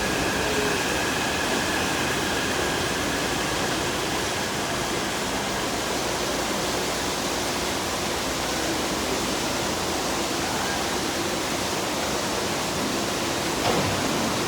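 Heavy rain falling steadily. A faint high whine fades out in the first few seconds, and there is a single short knock near the end.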